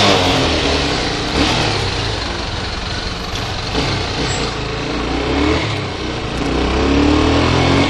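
Honda CB300R's single-cylinder engine running as the motorcycle rides along, under a steady rush of wind and road noise; the engine revs up as it accelerates about six seconds in.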